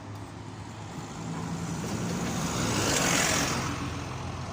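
A vehicle passing close by: a low engine hum under tyre and road noise that swells to a peak about three seconds in, then fades.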